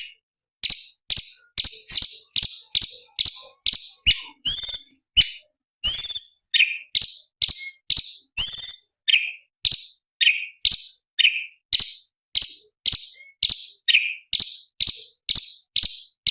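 Orange-bellied leafbird (cucak cungkok) singing a rapid run of short, sharp, high notes, about two to three a second, broken by a few longer, buzzier phrases.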